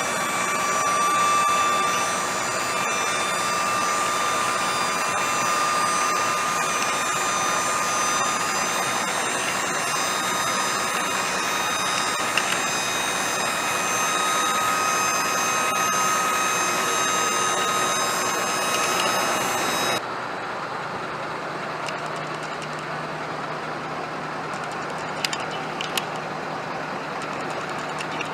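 A 6.7-litre Power Stroke turbo-diesel V8 runs steadily at idle, with a high whine that rises slowly. About twenty seconds in, the sound cuts abruptly to a quieter, lower steady hum, with a couple of sharp clicks near the end.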